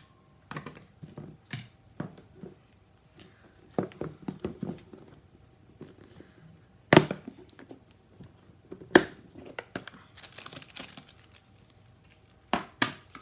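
Paper and craft supplies handled on a desk: crinkling and rustling with scattered light clicks, and a few sharp knocks, the loudest about 7 and 9 seconds in and two more near the end.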